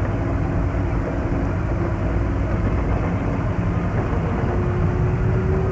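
Ride train running, a steady low rumble with a thin whining tone that comes in near the end and rises slightly.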